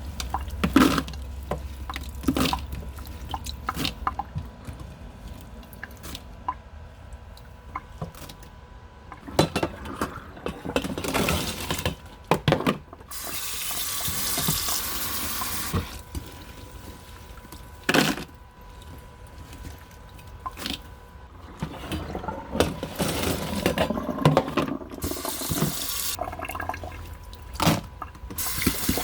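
Cicadas being washed by hand in a basin of water: repeated splashing and sloshing as they are stirred and rinsed, with two stretches of water running into the basin, one about halfway through and one near the end.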